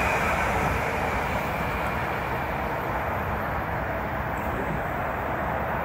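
Metro-North M8 electric multiple-unit train running past and pulling away: a steady noise of wheels on rail that slowly fades as the train draws off.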